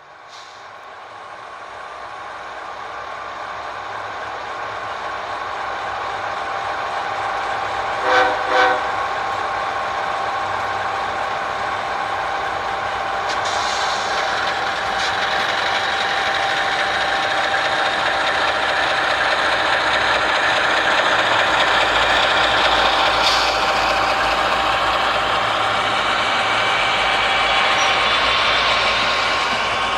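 HO-scale model locomotive running on a sound-equipped layout: steady engine sound with held tones, growing louder, and two short horn toots about eight seconds in.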